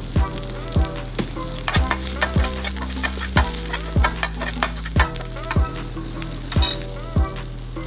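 Chicken pieces sizzling in hot oil as they are stirred, with sharp clicks of a utensil against the pan. Background music with a steady beat plays throughout.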